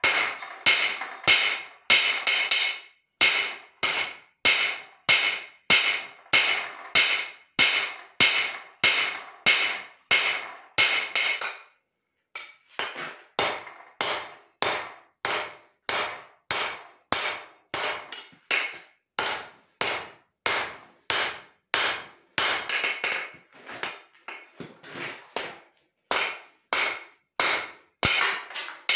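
Hand hammer striking leaf-spring steel on an anvil, steady blows at about two a second with a ringing tone. The blows stop briefly about twelve seconds in, then resume with less ring.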